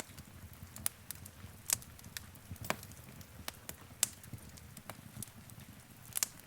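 Wood fire burning in a fireplace: irregular sharp crackles and pops over a low rumble of the flames.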